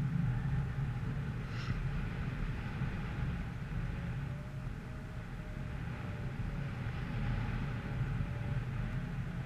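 Steady low rumble, with a faint wavering tone coming in about four seconds in and a brief hiss about a second and a half in.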